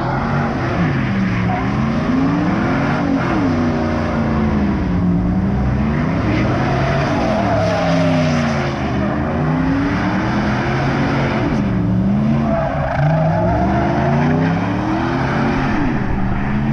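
A car engine revving hard up and down over and over, its pitch rising and falling every second or two, over a continuous hiss of tyre noise.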